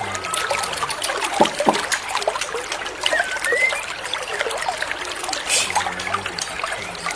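Water trickling and splashing steadily, with a few short bird whistles and chirps over it, including one rising whistle about three seconds in.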